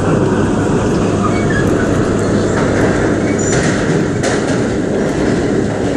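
R32 subway train running along the track, a loud steady rumble from inside the car with a few sharp clicks in the middle.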